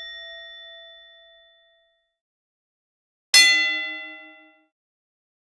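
Bell-like chime struck twice: the first ring fades away about a second and a half in, and a second, sharper strike comes about three seconds in and rings for about a second. Between them there is complete silence, as with an added sound effect.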